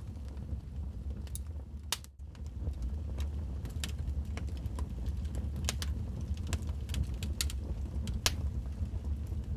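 Wood fire crackling in a fireplace: irregular sharp pops and snaps over a steady low rumble of the flames, with a brief drop in sound about two seconds in.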